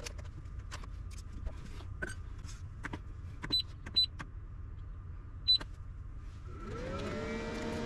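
Light handling clicks and three short, high electronic beeps, then near the end a small electric motor spins up with a rising whine and runs steadily.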